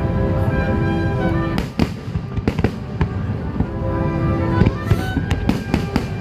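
Fireworks finale: shells bursting with sharp bangs over loud music with long held notes, the bangs coming thicker near the end.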